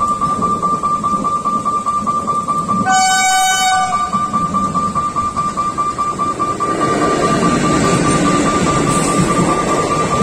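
Train horn sounding one blast of about a second, about three seconds in, over the low rumble of the approaching train, which grows louder in the second half. A steady high-pitched tone runs throughout.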